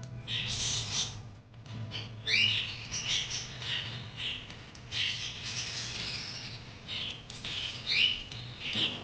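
Budgerigars chirping and chattering in short squawky calls, some sliding in pitch, with scratchy noisy sounds in between.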